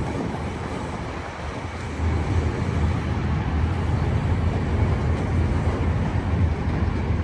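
BNSF autorack freight train rolling past, a steady rumble of wheels on rail that grows louder about two seconds in.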